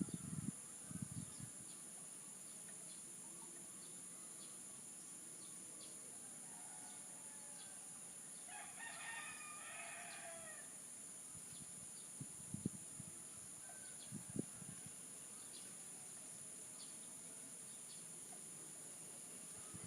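A rooster crows once, faintly, about halfway through, a single call of about two seconds. Under it runs a steady high insect drone, and a few dull low thumps come near the start and again later.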